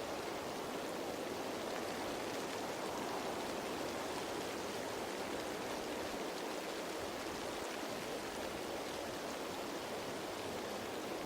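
Steady rain falling on leaves: an even, unbroken patter-hiss with no distinct drops standing out.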